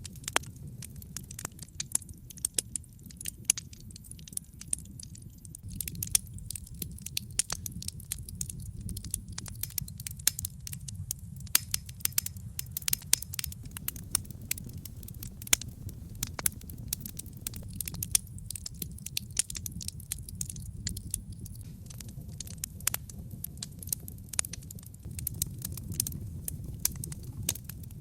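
Wood logs burning in a fireplace, crackling continuously: dense, irregular sharp pops and snaps over a low, steady rush of flame.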